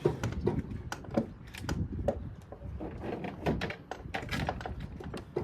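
Irregular light clicks and knocks of objects being handled and set down, a few to several a second.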